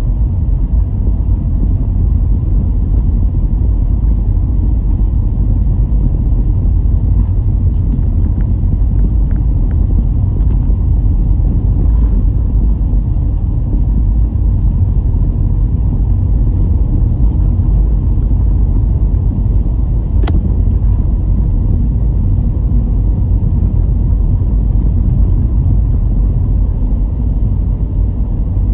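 Car driving at a steady pace: an even low rumble of engine and road noise, with a single sharp click about two-thirds of the way through.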